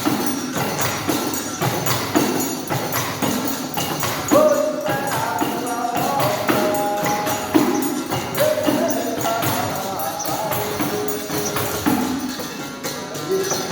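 Live capoeira music played on percussion: a pandeiro's jingles and drum strikes keep a steady rhythm, with pitched notes held over them.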